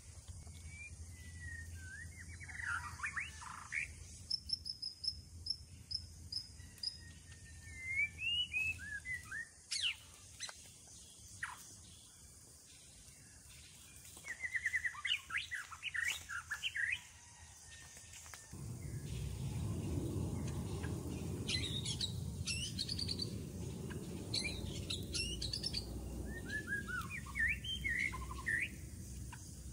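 Wild birds chirping and calling in short, repeated phrases. A steady low rumble comes in a little past halfway.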